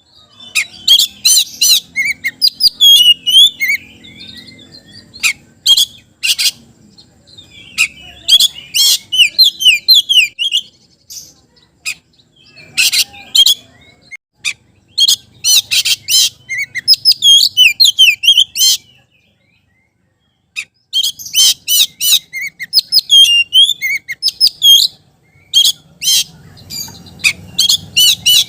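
Oriental magpie-robin singing in full voice: loud, rapid phrases of rising and falling whistles and sharp chattering notes, with short pauses between phrases and one silent break of about two seconds a little past the middle.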